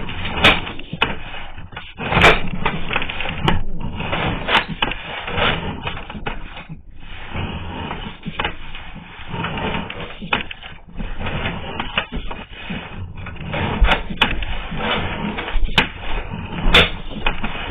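Sewer camera push cable being pulled back out of the line: an irregular mechanical rattle and rubbing, broken by frequent sharp clicks and knocks.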